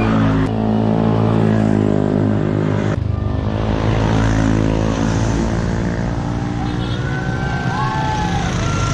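Motorcycle engine running at a steady speed while riding, a continuous even drone that shifts slightly about three seconds in.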